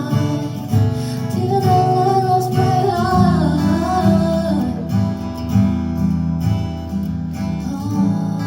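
Live acoustic guitar strumming chords with a singer holding a wavering sung line through the first half; the voice drops out about halfway and the guitar carries on alone.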